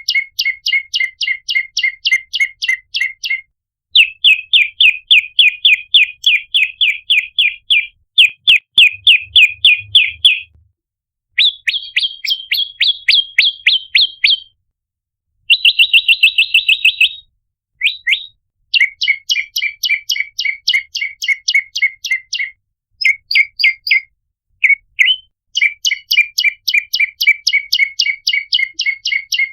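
Prenjak lumut (a small Indonesian warbler) giving rapid, loud chip calls, about five sharp notes a second, in runs of a few seconds with short breaks between them, spliced together as a bird-lure call track.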